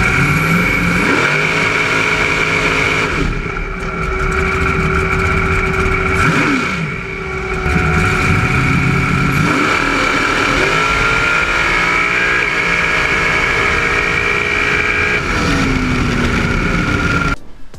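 Cammed 6.0 L LS2 V8 of a 2006 Pontiac GTO with Kooks headers, accelerating hard. The revs climb and then drop several times as it is shifted up through the gears of its manual transmission.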